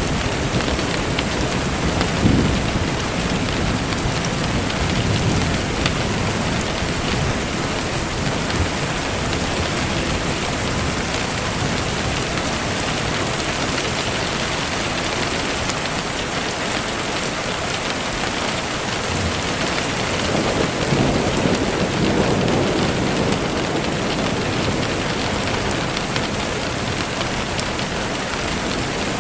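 Steady rain falling on a surface, an even hiss. Two low rumbles of thunder swell through it, one about two seconds in and another about two-thirds of the way through.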